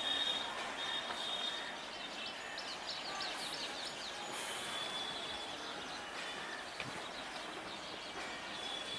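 Electric multiple unit (EMU) local train approaching at a distance: a steady, even rumble of the train blended with outdoor background noise. A thin high steady tone comes and goes, and a cluster of short high chirps sounds about three seconds in.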